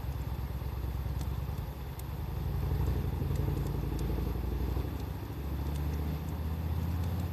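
Wood fire crackling, with scattered sharp pops, over a loud low rumble that swells and fades.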